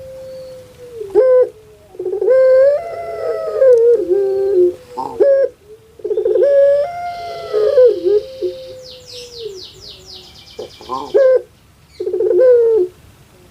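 Puter pelung (a domestic dove, Streptopelia risoria) giving its loud cooing song: two long drawn-out phrases, each with a wavering held note, then several short coos.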